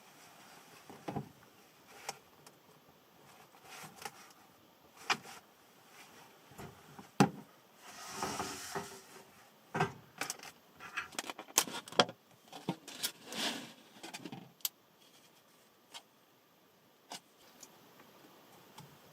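Small objects being handled at close range: scattered clicks, knocks and light clinks, with a short rustling swell about eight seconds in and a quick run of clicks and rustles between about ten and fourteen seconds.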